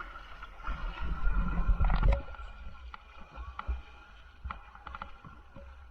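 Paddles dipping and splashing in river water around an inflatable raft, with scattered knocks. About a second in there is a loud low rumble lasting about a second.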